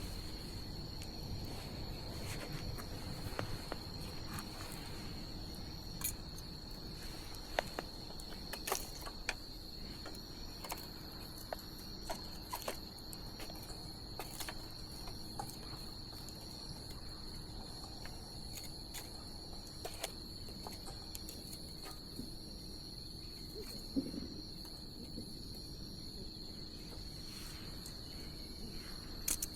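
Bonfire crackling with scattered sharp pops, over a steady high trill of crickets.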